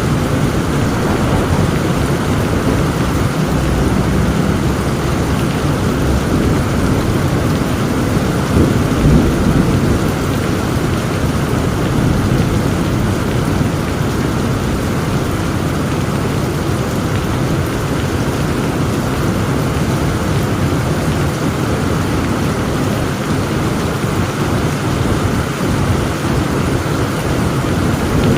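Heavy rain falling steadily, with low thunder rumbling underneath that swells briefly a few seconds in and again about a third of the way through.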